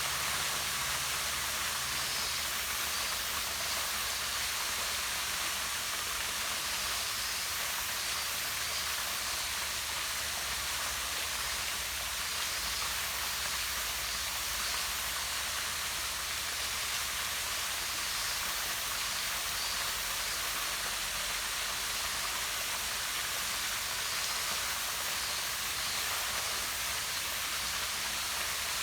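Small waterfall running down a rock face into a pond: a steady, unbroken rush of falling and splashing water.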